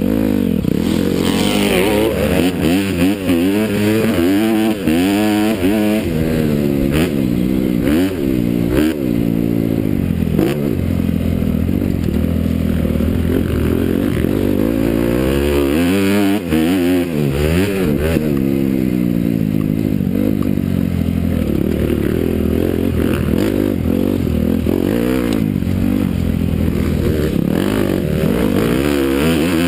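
Honda CRF250R's single-cylinder four-stroke engine revving up and down over and over as the dirt bike is ridden on a motocross track, its pitch climbing and dropping with throttle and gear changes.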